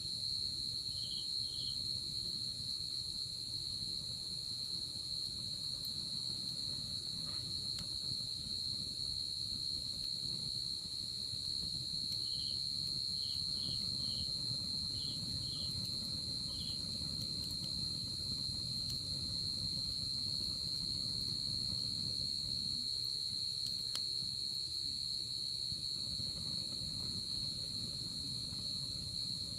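A night insect chorus: one unbroken high trill, with a few short chirps at a slightly lower pitch coming in small clusters, over the low, steady rush of a wood fire with an occasional faint crackle.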